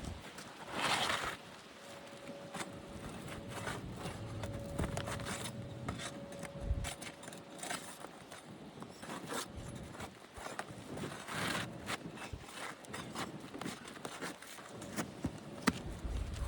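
Scraping and small clicks of a tool working against asphalt roof shingles and nails, with two longer scrapes, one about a second in and one near eleven seconds.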